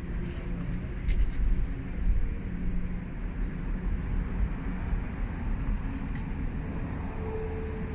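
Low, steady rumble of a running vehicle engine, with small swells and a couple of faint clicks.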